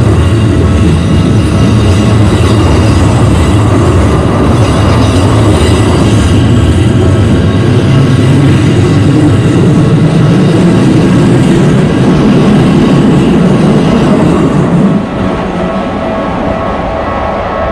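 Keikyu electric train passing close by a level crossing, a loud steady rumble of wheels on rails. About fifteen seconds in the rumble drops away as the train clears, and the level-crossing warning bell's steady ringing carries on.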